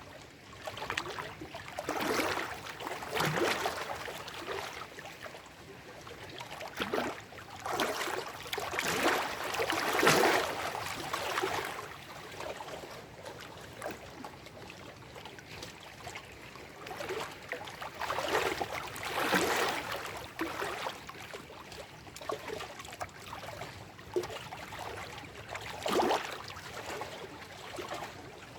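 Small lake waves washing and lapping over shoreline rocks and stones, in irregular splashing surges every second or few seconds, some louder than others, over a steady low wash of water.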